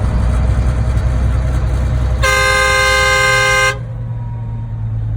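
A vehicle horn sounds one steady blast of about a second and a half, a little after two seconds in. Steady road and engine rumble from a moving vehicle runs underneath.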